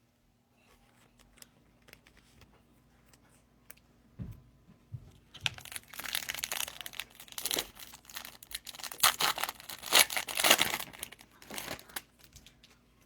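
Foil wrapper of a Topps Chrome trading-card pack being torn open and crinkled. It is loudest from about five to twelve seconds in, after some lighter handling clicks.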